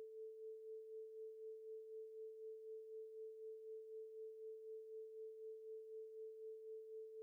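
Faint, steady electronic sine tone a little below 500 Hz, pulsing gently in loudness several times a second, used as the quiz's thinking-time background tone.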